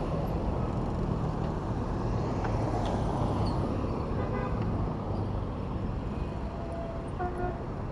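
City road traffic heard from a bicycle: steady engine and tyre noise with a low rumble, and a short car-horn toot about a second before the end.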